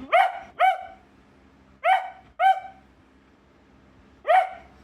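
A dog barking five times in short, sharp barks (two quick pairs, then one more near the end): the ginger dog demanding the chew treats that are being held back from it.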